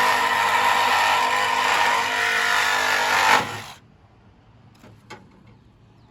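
Power cutting tool running at full speed as it cuts metal on a truck chassis, stopping suddenly about three and a half seconds in, followed by a couple of light clicks.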